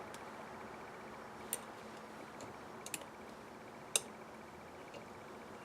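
A few light, sharp clicks of small carburetor parts and hand tools being handled over a steady faint hiss, the loudest about four seconds in.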